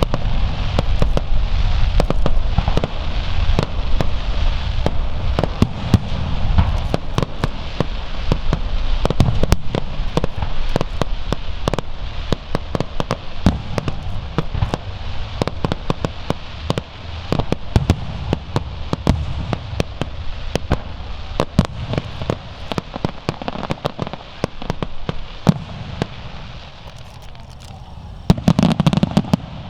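A fireworks display: rapid sharp cracks and crackling over deep booms, thinning out late on, then a final loud flurry with a heavy boom just before the end.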